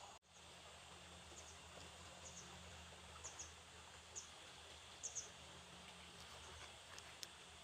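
Faint outdoor ambience with short, high chirps repeating about once a second, pairs of them near the middle, over a steady low hum; the sound drops out briefly just after the start.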